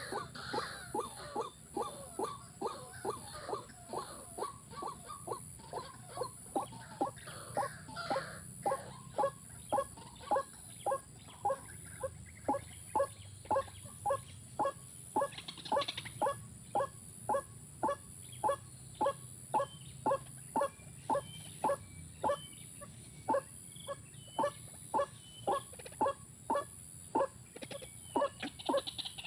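An animal calling in a steady series of short, evenly spaced calls, about two a second.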